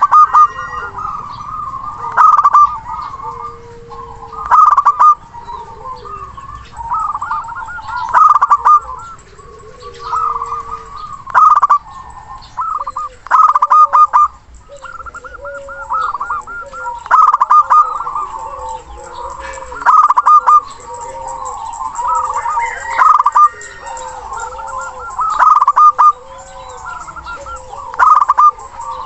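Zebra doves (local perkutut) cooing: rolling, staccato coos repeated over and over, with overlapping calls at a higher and a lower pitch and a loud burst about every two to three seconds.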